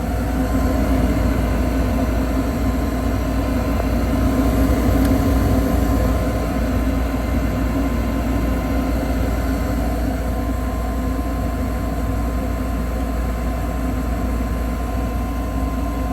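Two-stage gas furnace running steadily in second stage, its inducer fan, burners and blower making a constant hum with several steady tones.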